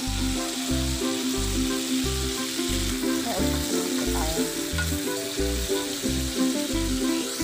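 Food frying in a pan, a steady sizzle, under background music with a regular bass beat.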